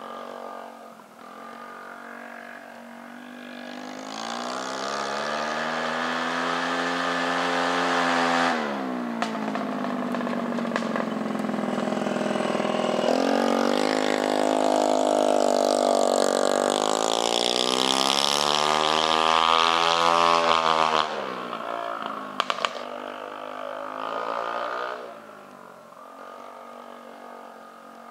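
Peugeot Kisbee 4T 50cc scooter engine running on an open exhaust with no silencer, revving up and holding high, then dropping off sharply about eight seconds in and again about twenty-one seconds in. A few sharp pops come just after the second drop, typical of backfires on lift-off.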